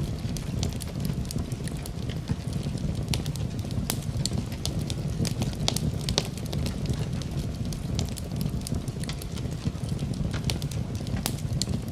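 Campfire burning: a steady low rush under frequent, irregular crackles and pops of burning wood.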